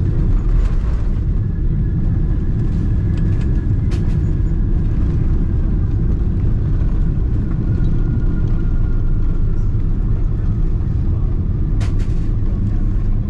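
Cabin sound of a Boeing 777-200ER on its landing rollout: a heavy, steady rumble with a high engine tone that slowly falls in pitch as the plane slows. Two brief sharp knocks or rattles, about four seconds in and near the end.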